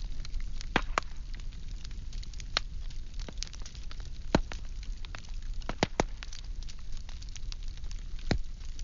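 Firewood burning steadily, with a low rumble and hiss of flame and irregular sharp crackles and pops from the logs, a few of them louder.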